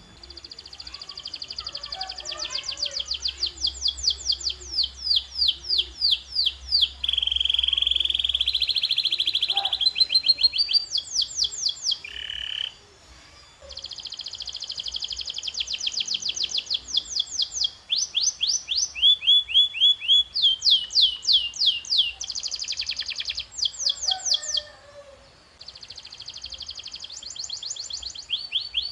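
Domestic canary singing: fast repeated trills of short downward-sweeping notes, with a smooth rolling trill a few seconds long about seven seconds in, broken by two short pauses.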